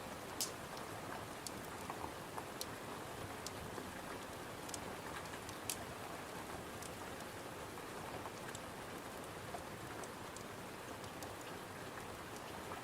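Steady rain with a wood fire crackling, giving a sharp pop every second or so, the loudest about half a second in and again near the middle.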